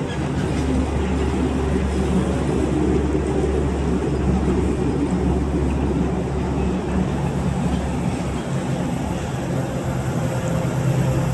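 Heavy diesel haul truck engine running: a loud, continuous low rumble with an engine note that shifts slightly in pitch.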